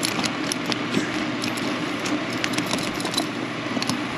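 Jeep engine running steadily at idle, with scattered light clicks and crunches over it.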